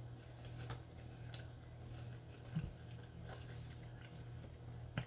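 A person quietly chewing a bite of Pizza Hut buffalo chicken melt, with a few faint clicks, over a steady low hum.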